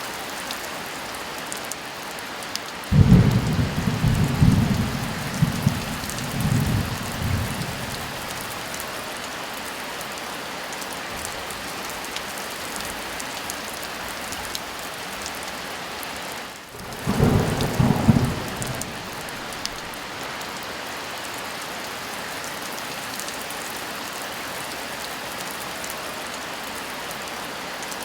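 Steady heavy rain with two loud rumbles of thunder: a long, rolling one about three seconds in that lasts several seconds, and a shorter one past the middle.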